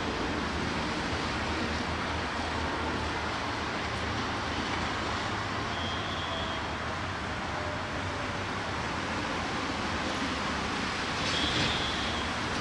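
Metre-gauge passenger train hauled by an EMD GT18LA-2 diesel locomotive, rolling away along the track: a steady rumble and hiss. Two faint, brief high squeals come about six seconds in and near the end.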